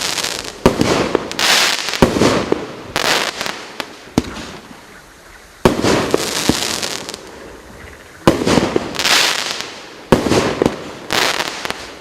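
Maxsem SKY BURST BS13 002 firework cake firing shot after shot, about once a second with a short lull in the middle. Each shot is a sharp bang followed by a crackling hiss.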